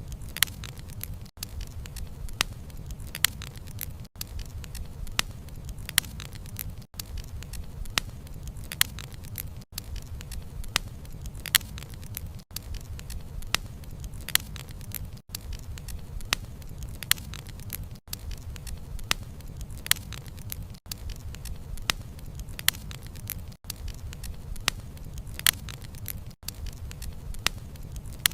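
Wood fire crackling: sharp, irregular pops and snaps of burning wood over a low, steady rumble of flame. The sound dips briefly about every three seconds.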